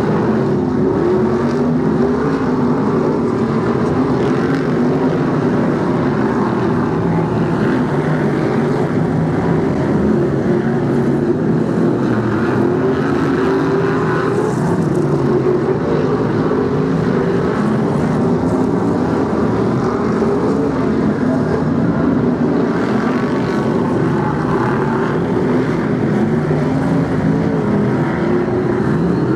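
Several BriSCA F1 stock cars' V8 engines running at once as the pack laps the oval, a steady, loud, continuous engine din without a break.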